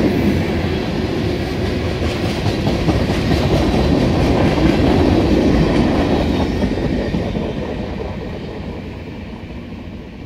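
Freight train cars, covered hoppers, rolling past on the rails. The sound fades away steadily over the last few seconds as the end of the train passes and moves off.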